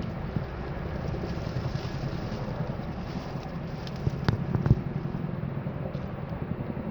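Boeing Chinook twin-rotor military helicopter flying over, a steady low rumble of rotors and engines that eases slightly. Two sharp clicks about four seconds in.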